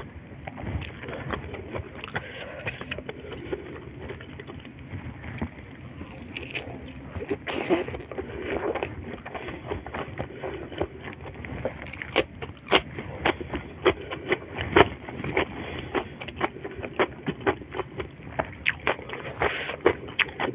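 Close-miked eating sounds: wet chewing and lip smacks as a person eats spicy shrimp and rice by hand, with fingers picking at the food on the plate. Many short sharp clicks and smacks come more densely in the second half.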